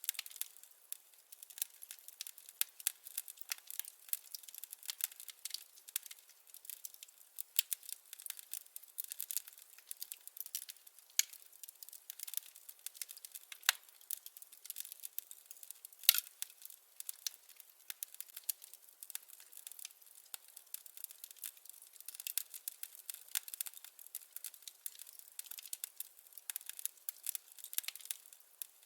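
Burning firewood crackling with quick, irregular pops and snaps, a few of them louder, one standing out about 16 seconds in. The sound is thin, with no deep roar of flame underneath.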